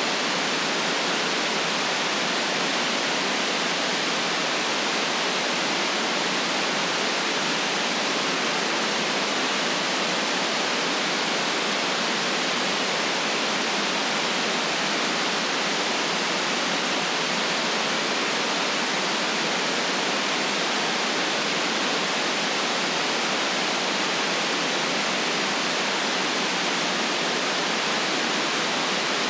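Steady synthetic white noise: an even, unchanging hiss with no low rumble, cut off above the high treble.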